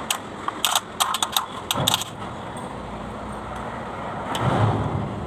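Metal clatter: a quick run of sharp clicks and clinks in the first two seconds, then a duller swell of noise with a low thump near the end.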